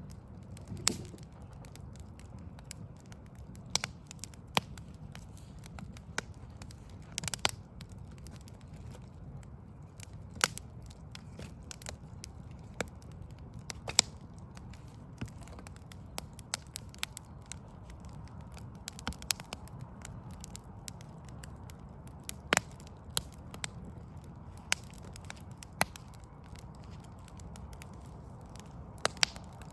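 Wood fire of burning logs crackling, with irregular sharp pops and snaps scattered a second or so apart over a low steady rumble.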